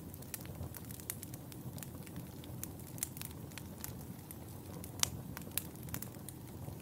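Fireplace fire crackling: a steady low rumble of flames under many irregular sharp pops and snaps, with one louder pop about five seconds in.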